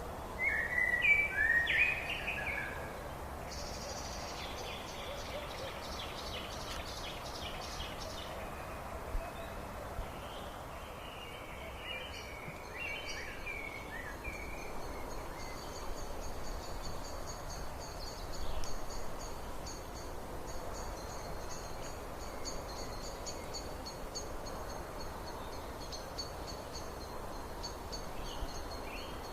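Wild birds singing and calling over a steady outdoor hiss: a burst of loud chirps at the start, a fast high trill a few seconds in, more chirps later, then a long high pulsing trill that carries on to the end.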